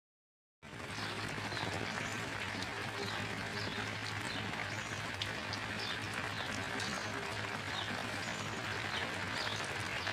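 Steady rain falling, with faint short high chirps scattered through it. The sound drops out completely for about half a second at the very start.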